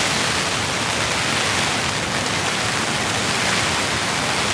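Heavy rain falling, a steady, even downpour.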